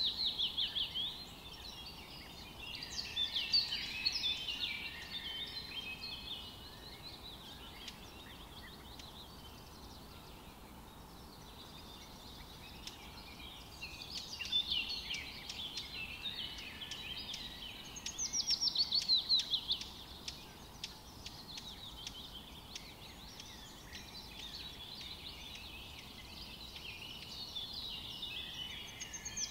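Birds singing outdoors: bursts of rapid high chirps recur every few seconds, some as quick runs of notes falling in pitch, over a faint steady background hiss.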